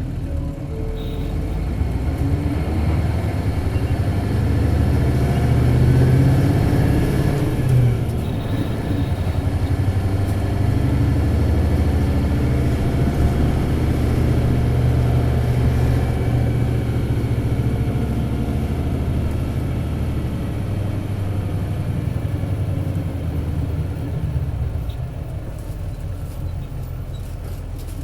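Isuzu 8PE1-S V8 diesel of an Isuzu Cubic KC-LV280L city bus, heard from inside the bus, revving hard under acceleration. The engine climbs for several seconds, breaks sharply near eight seconds in, pulls strongly again, then eases off toward the end.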